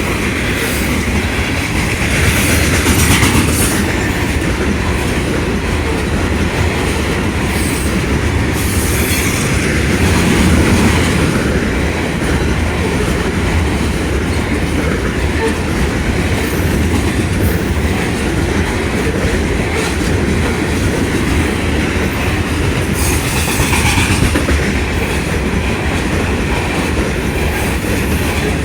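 Union Pacific freight train's cars rolling past close by: a steady heavy rumble with wheels clacking over the rail joints, and a few brief high-pitched wheel squeals.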